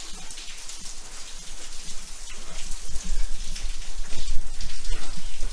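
Water dripping and pattering steadily inside a damp brick railway tunnel, from seepage through the roof and shaft. A low rumble builds from about halfway through.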